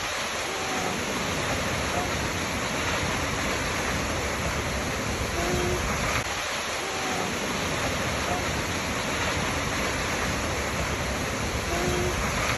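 Waterfall: a steady, even rush of falling water. Short faint tones recur about every six seconds.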